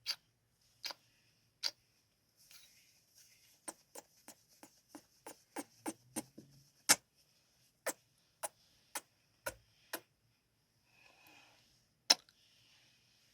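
Close-miked ASMR kissing sounds: about twenty sharp, wet lip smacks, a few spaced apart at first, then a quick run of them in the middle, then slower again, with faint breaths between.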